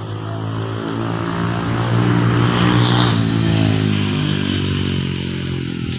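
A motor vehicle's engine running steadily, growing louder about two seconds in and easing off toward the end, as if passing by.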